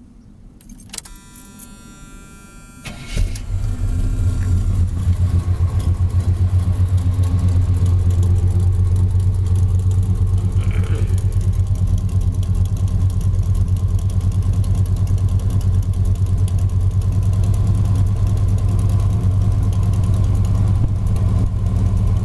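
Cold start of a 1979 Chevy truck's rebuilt 350 V8: the starter cranks for about two seconds, the engine catches about three seconds in, then settles into a steady idle through mufflers the owner believes are MagnaFlows.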